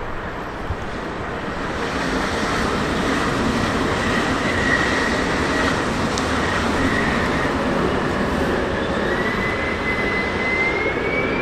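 Train running into the station, a steady rumble of wheels on the rails, with a thin high squeal of wheels or brakes that rises in pitch over the last couple of seconds.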